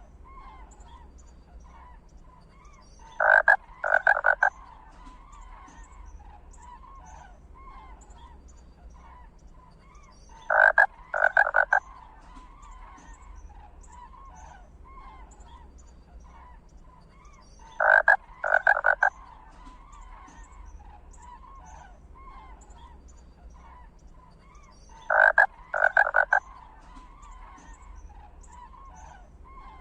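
Frog chorus with many small calls, and over it a loud double croak that comes four times at even intervals of about seven seconds.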